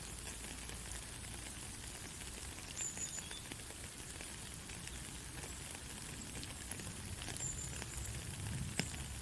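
Steady rain falling, a continuous hiss with scattered sharp ticks of drops striking. A low rumble swells briefly near the end.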